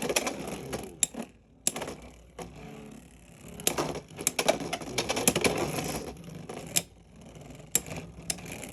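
Beyblade X spinning tops battling in a plastic stadium: irregular sharp clacks as they collide with each other and the stadium walls. A short lull comes about a second in, then a cluster of hits in the middle, then a few single clacks near the end.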